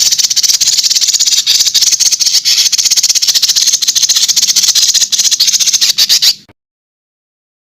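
Songbird giving a long, rapid, dry rattling trill of fast, evenly repeated notes, the tight 'tembakan rapat' burst prized in songbird competition; it cuts off suddenly about six and a half seconds in.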